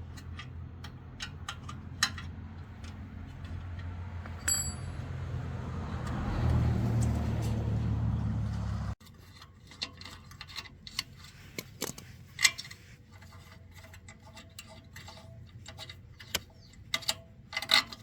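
Electric motor running with a steady low hum that grows louder, then cutting off suddenly about halfway through. Small metal clicks and clinks of parts and tools being handled follow.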